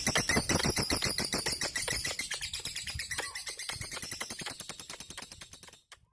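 Lovebird calling in a long, fast run of sharp chirps, about a dozen a second, growing fainter and stopping just before the end.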